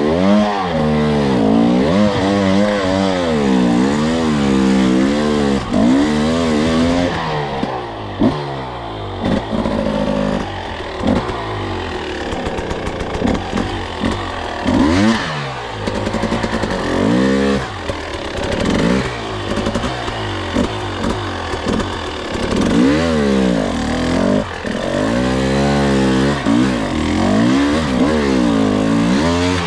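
Two-stroke enduro dirt bike engine, its pitch climbing and dropping every second or two as the throttle is opened and closed over the trail, with a few brief lulls where it drops back.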